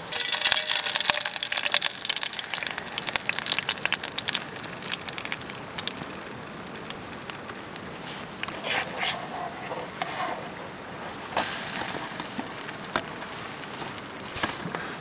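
Pancake batter sizzling and crackling in hot oil in a small titanium frying pan over a gas canister stove. The sizzle flares loudest at the start and again about eleven seconds in.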